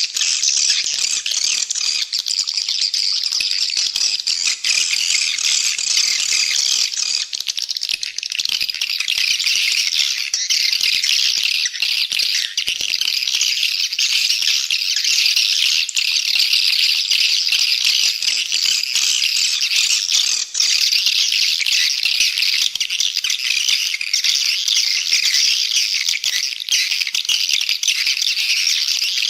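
Edible-nest swiftlets twittering: a dense, continuous, high chattering. It is a swiftlet call-sound recording of the kind played to lure swiftlets into a swiftlet house.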